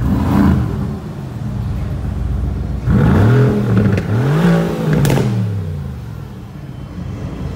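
Mercedes-AMG GT R's twin-turbo V8 revved while parked: a short blip about half a second in, then two bigger revs about three and four and a half seconds in, each climbing and falling back to idle. There is a sharp crack at the peak of the last rev.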